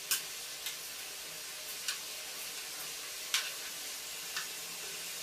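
Food frying in hot oil in a pan: a steady sizzle with a few sharp pops scattered through it.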